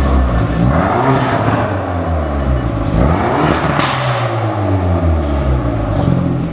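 Hyundai i30 N Performance's 2.0-litre turbocharged four-cylinder revved twice with the car standing: the revs climb, then die back slowly each time. It sounds through an exhaust whose petrol particulate filter has been replaced by a straight dummy pipe.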